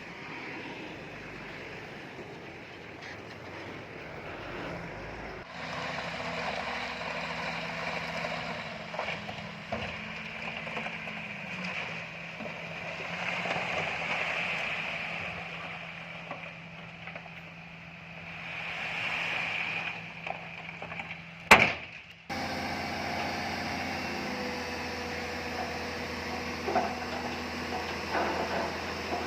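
Heavy diesel construction machinery running, a steady engine hum with a hiss that swells and fades. The sound changes abruptly twice, and one sharp loud knock comes about three-quarters of the way through.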